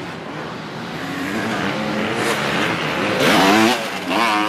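Dirt bike engine revving, its pitch climbing and the sound growing louder to a peak a little past three seconds in, then dropping sharply and climbing again near the end.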